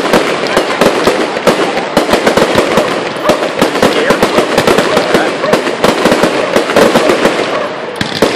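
Fireworks going off in quick succession: a dense, loud run of crackles, pops and bangs with no break.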